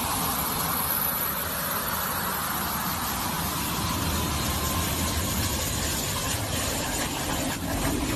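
Boeing 737-400's CFM56 jet engines running as it taxis, its jet blast striking the microphone as a steady rushing noise with a faint whine.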